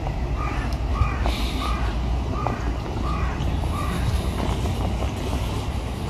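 A bird giving a run of about six short calls, one every half second or so over the first four seconds, over a steady low rumble.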